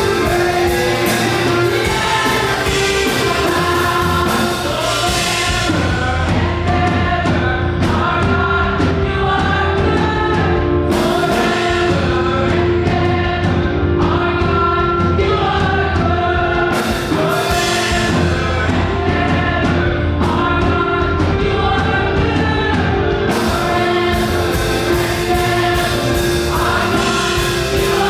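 A gospel choir singing fast, upbeat praise music over a band with a steady beat and bass.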